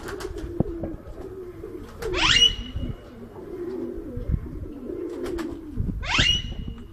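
Ringneck parrot giving two loud, shrill calls, about two seconds in and again near the end, each sweeping sharply upward and ending in a short held whistle. A steady low cooing of pigeons runs underneath.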